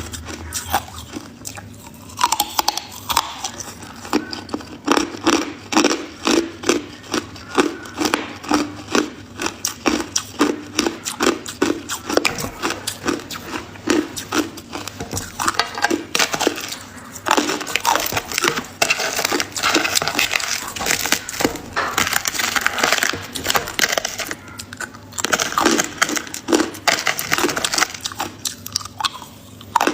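Ice being bitten and chewed close to the microphone: rapid, crisp crunching, several crunches a second, with brief pauses about 17 and 25 seconds in.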